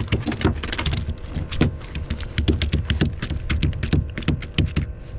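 A quick, irregular run of sharp clicks and knocks, several a second, densest from about two and a half seconds to near the end.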